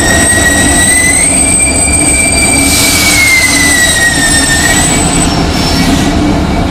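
Train wheels squealing against the rails as the train rolls past: a high, steady squeal that steps up slightly in pitch about a second in and dies away around five seconds in, over the steady rumble of the rolling stock.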